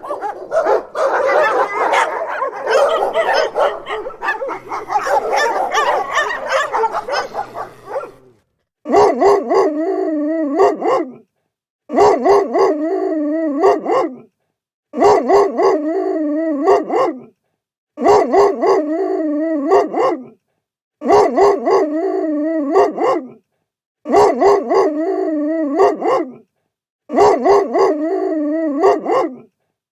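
Several dogs barking over one another for about eight seconds. Then a single dog's steady, wavering howl-like call repeats about every three seconds, the same short recording looped with silent gaps between.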